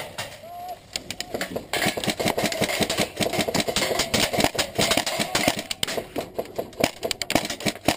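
Rapid airsoft gunfire: a fast, uneven string of sharp clicks and cracks, several a second, thickest from about two seconds in.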